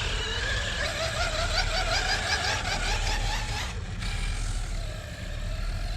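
Electric RC monster truck driving, its motor whining with a pitch that wavers and slowly climbs with the throttle, then drops away about four seconds in, over a steady low rumble.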